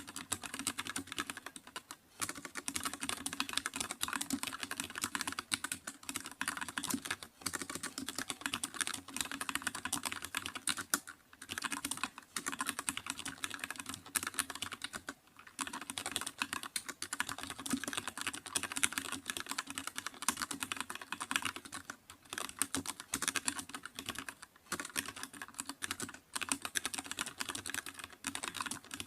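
Computer keyboard typing: a fast, continuous run of key clicks with only brief pauses.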